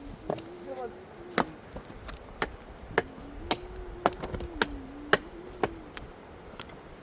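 Repeated sharp chopping strikes, about two a second, over a thin wavering tone.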